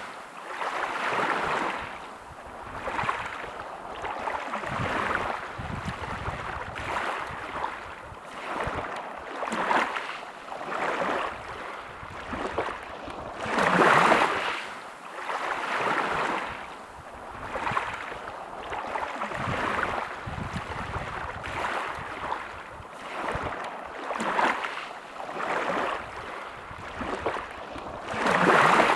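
Small sea waves breaking and washing ashore in repeated surges every second or two, with two bigger waves, one about halfway through and one near the end.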